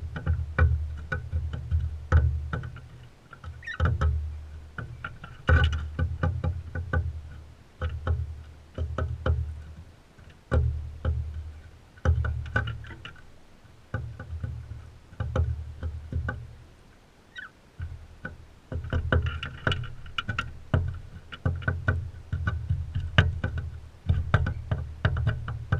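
Birds feeding at a feeder close to the microphone: irregular sharp clicks and taps from beaks at the seed, with short chirps. Under them runs a low rumbling thump about every second and a half.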